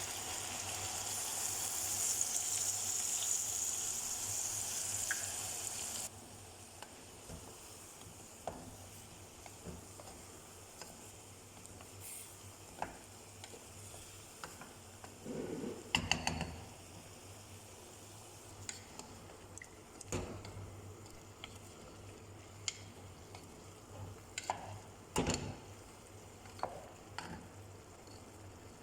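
Chicken sizzling in a cooking pot, a loud hiss that cuts off suddenly about six seconds in. After that, quieter stirring with scattered clinks and knocks of a utensil against the pot.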